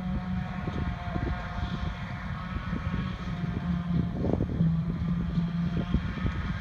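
Heavy diesel farm machinery running steadily during grass silage chopping, with a forage harvester and tractors at work. A low rumble carries a steady hum, with a few short knocks about four seconds in.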